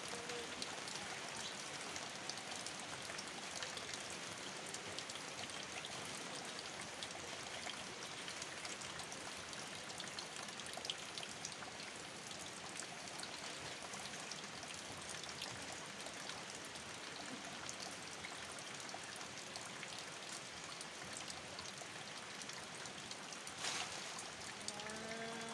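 Steady rain falling, with running water beneath it: an even hiss scattered with small drop ticks.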